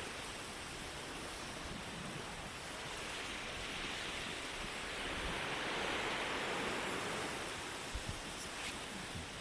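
Sea waves washing onto a shore, the surge swelling and easing with a peak about halfway through. A couple of brief low thumps come near the end.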